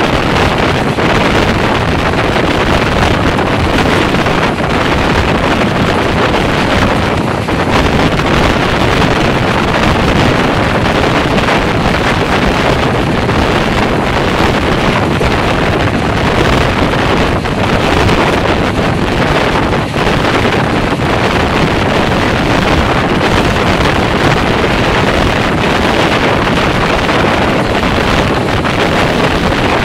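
Steady wind rushing over a microphone held out of a passenger train coach at speed, over the train's running noise.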